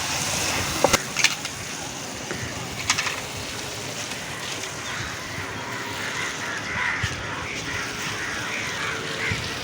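Onions and tomato sautéing in coconut oil in a pan: a steady sizzle with a few clicks of the stirring spoon against the pan.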